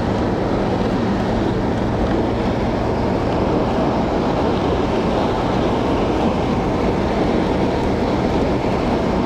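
Steady road and tyre noise of a car moving at highway speed, heard from inside the cabin, with no change in pace or pitch.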